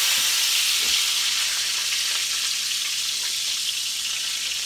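Salmon patties sizzling as they shallow-fry in hot vegetable oil in a skillet, a steady frying hiss.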